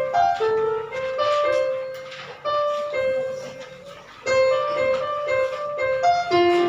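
Piano playing a melody note by note, a passage of the song being rehearsed; the playing fades out about three and a half seconds in and starts again a little after four seconds.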